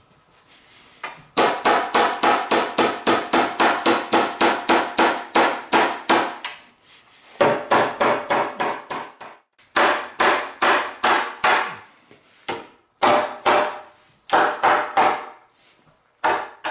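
Rapid hammer strikes on wood, about four to five a second, in several runs separated by short pauses, each blow ringing briefly.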